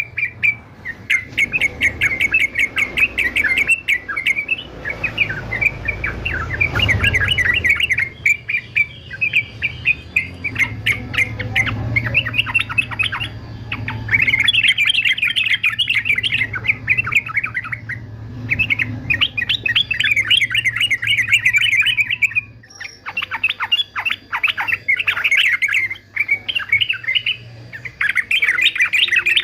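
Male yellow-vented bulbul (trucukan) singing: rapid, chattering phrases of bubbly notes in near-continuous bursts, with a brief pause about three quarters of the way through.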